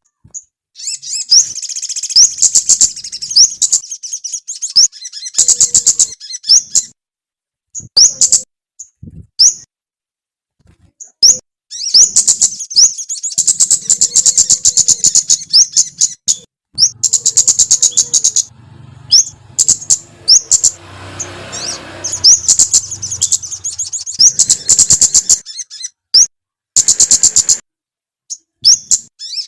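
Small songbird singing in bursts of rapid, high-pitched chirps and trills, separated by short silences.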